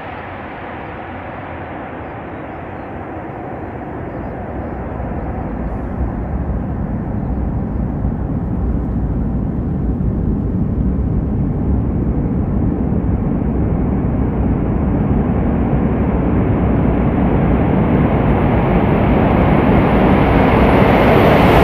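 ICE high-speed train approaching through the tunnel: a steady rushing rumble that grows gradually louder and brighter, building up to the train's pass-by.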